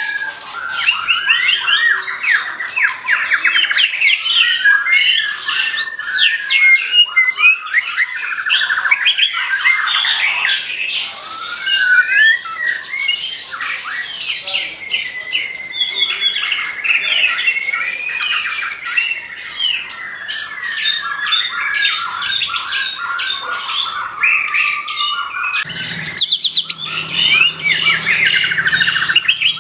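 Murai songbird singing vigorously and without pause: rapid chattering phrases mixed with sliding whistles, including one long drawn-out whistle about midway. A low steady drone joins in near the end.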